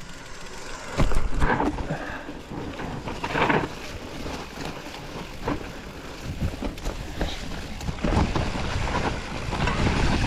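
Specialized Status 160 mountain bike riding a dirt trail: tyre noise with frequent knocks and rattles from the bike over rough ground, a hard jolt about a second in, and wind buffeting the microphone, heavier near the end.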